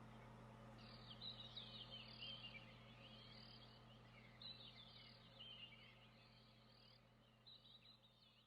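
Faint twittering chirps in short clusters, like distant birdsong, over a low steady hum.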